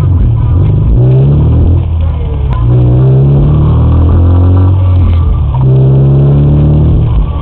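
Car engine heard from inside the cabin, accelerating away from a stop. Its pitch rises in three runs and drops twice between them as the transmission shifts up.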